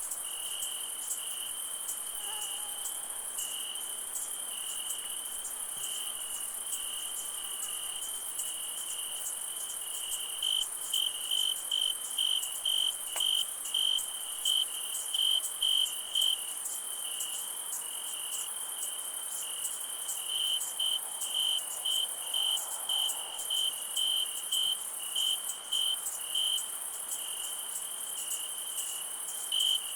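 Night chorus of crickets: a steady high-pitched insect trill, with one cricket chirping loudly at about two chirps a second through the second half.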